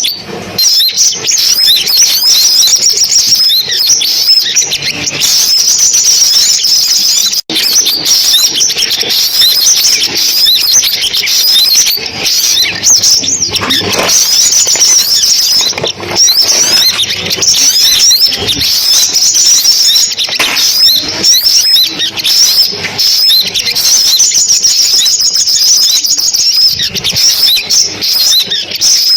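Recorded sunbird calls meant as a lure for speaker trapping: a dense, continuous stream of high, thin chirps and twitters, with a momentary break about seven and a half seconds in.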